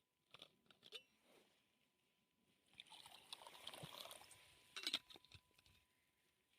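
Faint crunching in snow: a few light crunches, then a longer grinding crunch about three seconds in, and a sharp crunch, the loudest, just before the five-second mark.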